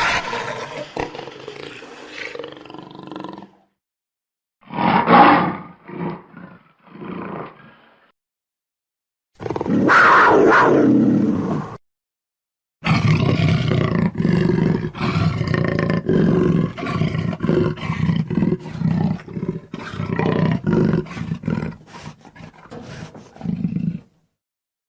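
Jaguar roaring and growling in several separate bursts with silences between them, then a long run of repeated rough calls in the second half.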